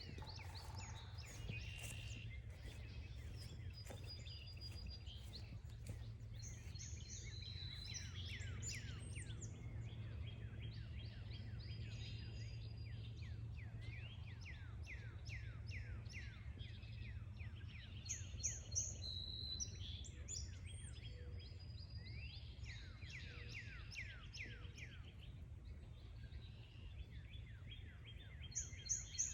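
Songbirds singing in a forest: repeated runs of quick downslurred whistled notes, with higher chirps from other birds over a steady low rumble.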